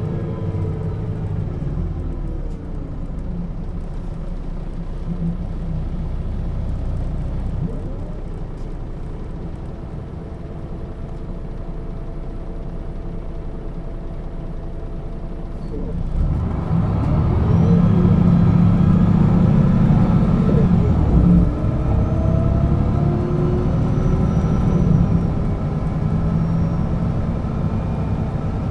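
Diesel engine of a 1996 Setra S 315 UL bus with a ZF gearbox. The engine winds down to a lower, quieter run. About halfway through, it comes under heavy load, rising in pitch, with a brief drop at a gear change a few seconds later before it climbs again.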